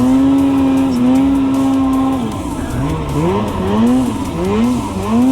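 Two-stroke snowmobile engine running hard, held at a steady high rev for about two seconds, then revving up and down about twice a second.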